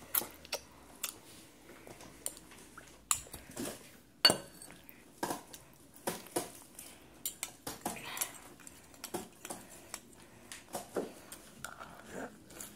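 Cutlery clinking and knocking against a dish during eating: irregular sharp clicks, the loudest about four seconds in, with a short ring after it.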